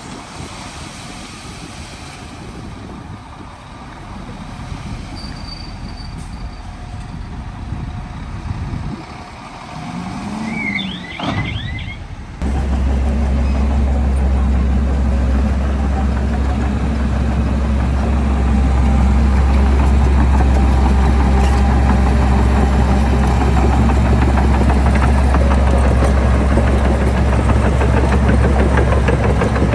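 Heavy diesel construction machinery running. About twelve seconds in, the sound jumps abruptly to a much louder, steady low diesel engine drone that holds to the end.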